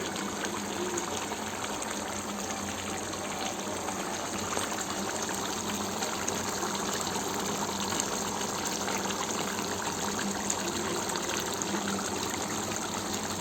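Watery chicken gravy curry simmering in a pot, bubbling steadily with a fine crackle.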